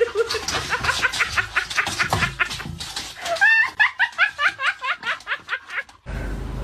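Someone laughing hard in two long bouts of quick, repeated pulses, the second starting on a high rising squeal. About six seconds in it cuts off abruptly to a steady low hum.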